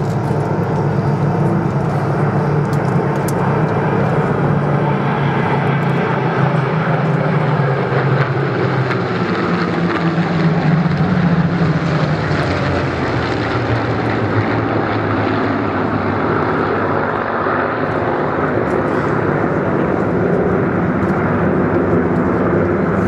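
Supermarine Spitfire piston engine and propeller droning steadily, growing a little louder about halfway through.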